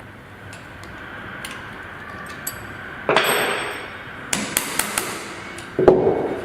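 Metal tools and submersible-pump parts being handled while the fixing screws are fitted: a clatter about three seconds in, a few sharp metallic clinks, then a loud knock near the end.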